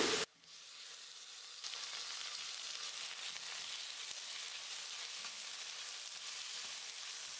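Faint, steady sizzle of sliced onions and freshly added chopped tomato frying in oil in a stainless-steel kadai. It comes in after a brief silent gap and gets a little louder about a second and a half in.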